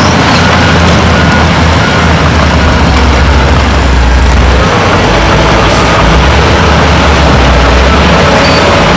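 Heavy diesel earthmoving machinery running steadily with a deep, continuous engine rumble.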